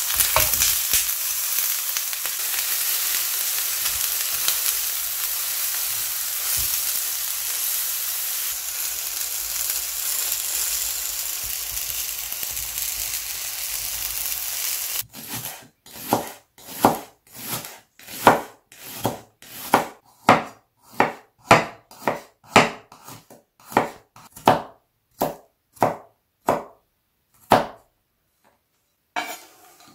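Eggplant slices sizzling steadily as they fry in oil in a frying pan. About halfway through it cuts to a knife chopping on a wooden cutting board, at about one and a half strokes a second.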